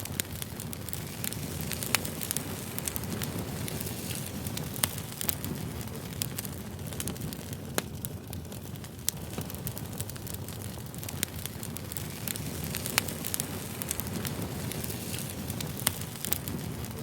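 Campfire crackling: a steady low rumble of burning wood with irregular sharp pops and snaps every second or so.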